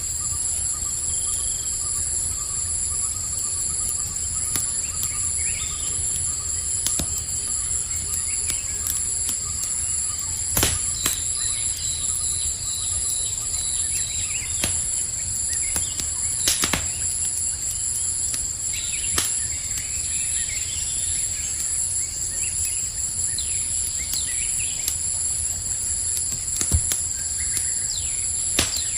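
Campfire crackling, with scattered sharp pops over a low rumble, against a steady high-pitched chorus of crickets and a few faint bird chirps.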